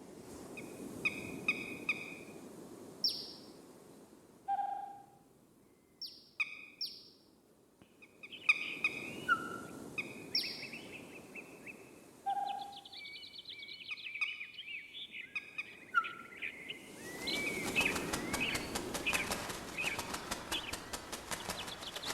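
Birds calling: a scattering of separate short calls at several pitches, including sharp down-slurred whistles, with pauses between them. A dense chorus of many rapid calls builds near the end.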